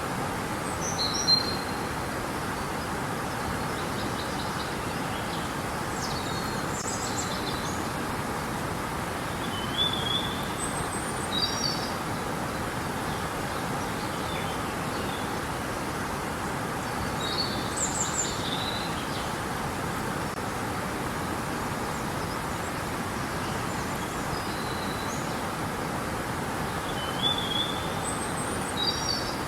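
Steady rushing of river water, with birds giving short high chirps every few seconds over it.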